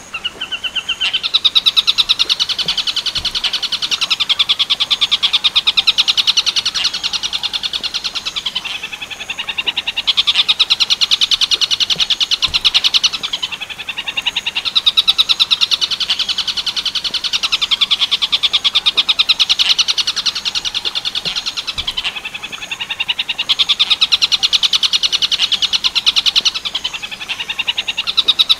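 Tengkek buto kingfisher-type call: a fast, rattling chatter repeated in four long bouts, each several seconds long, with short pauses of about a second between them.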